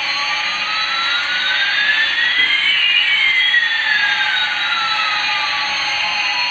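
Jet-engine sound effect, a steady hissing jet roar. One tone rises through it while another falls, and the two cross about halfway through. Faint high chirps repeat about once a second.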